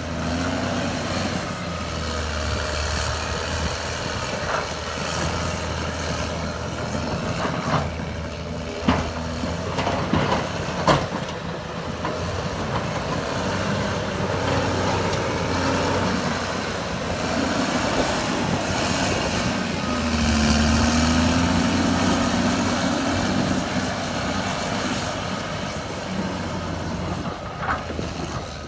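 CAT D6R2 crawler bulldozer's diesel engine running steadily under load, with a few sharp knocks and clanks, most of them between about eight and eleven seconds in and one more near the end. The engine grows louder for a few seconds about twenty seconds in.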